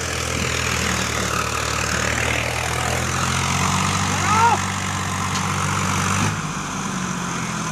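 Diesel tractor engine running steadily with a deep, even note, which drops away a little past six seconds in.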